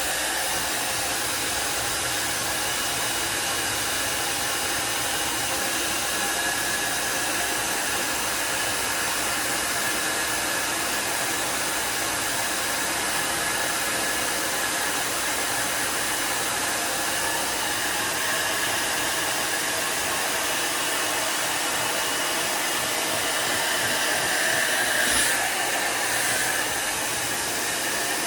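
Handheld hair dryer blowing steadily while a beard is blow-dried, with a brief swell in level near the end.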